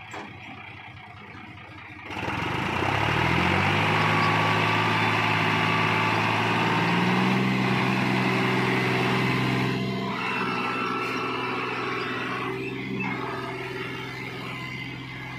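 John Deere 5310 tractor's diesel engine starting to pull hard about two seconds in, revs climbing for a couple of seconds and then holding steady under the load of a sugarcane trolley, easing off somewhat later.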